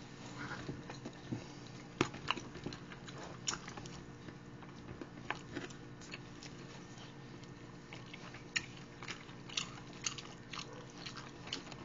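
Close-up eating sounds of people biting and chewing fried chicken wings and pizza: scattered sharp clicks over a faint steady hum.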